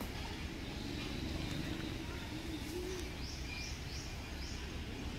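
Birds calling in a forest: a low wavering coo about a second in, then four quick rising chirps near the middle, over a steady low background rumble.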